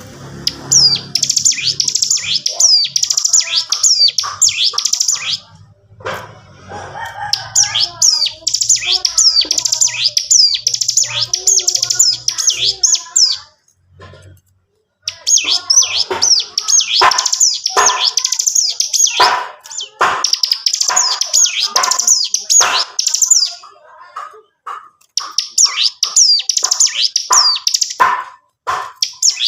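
A ciblek gunung (a prinia) singing in long, rapid, rattling trills of high chirping notes, in four phrases of several seconds each with short pauses between.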